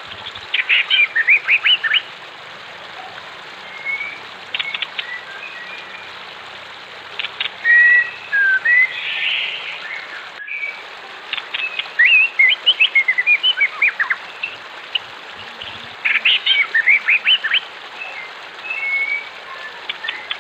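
Wild songbirds calling: several bursts of quick repeated chirps and scattered whistled notes, over a steady hiss of flowing water. The sound cuts out for an instant about halfway through.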